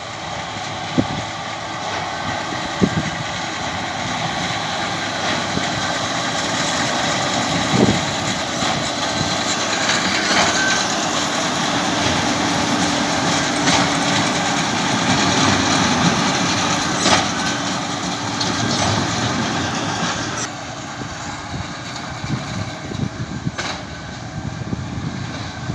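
John Deere tractor running steadily while pulling a baler through straw. It swells louder through the middle and drops off about twenty seconds in, with a few clicks and knocks from the machinery.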